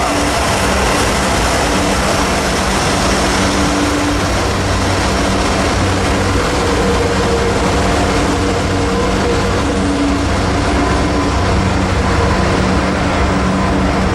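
Train passing close by: a steady, loud rolling noise of wheels on rail over the low, even hum of a diesel locomotive engine.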